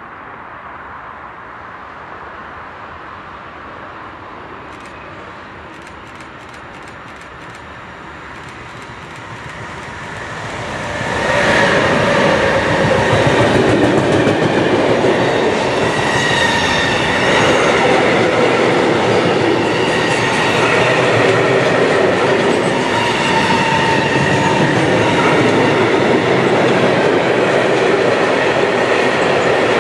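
A train passing close by on the main line: the rail noise grows from about nine seconds in, turns suddenly loud about eleven seconds in, and stays loud and steady as the train runs past.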